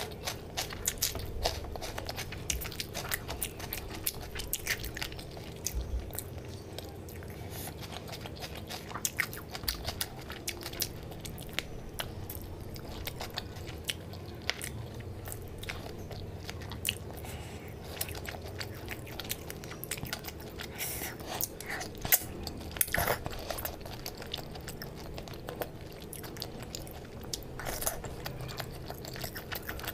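Close-miked chewing and wet mouth smacks of a person eating rice and fish curry by hand, a steady run of small sharp clicks with a few louder ones about two-thirds of the way in.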